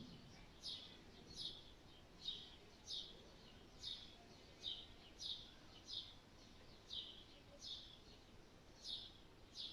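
A small bird chirping over and over, faintly: a short chirp that falls slightly in pitch, repeated about every three-quarters of a second.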